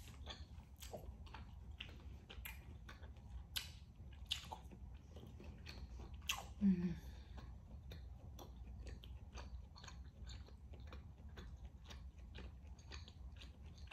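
Close-miked chewing of rare beef tenderloin steak: a steady run of small, wet, smacking mouth clicks.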